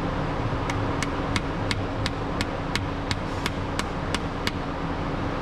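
About a dozen sharp metal taps, evenly spaced at roughly three a second, stopping about four and a half seconds in, over a steady background hum.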